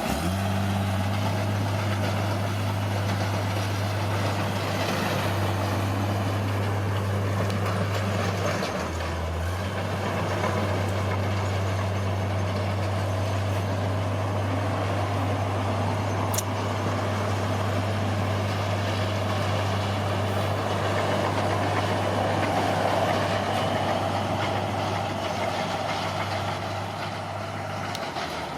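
Bulldozer's diesel engine running steadily, its low hum dipping briefly about nine seconds in.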